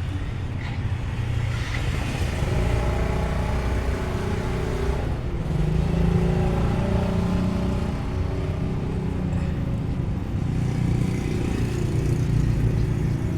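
Isuzu MU-X turbodiesel engine running steadily, its note swelling slightly a few times as the engine speed rises and falls. The car has an unexplained loud turbo noise, thought to come from a leak in the hoses.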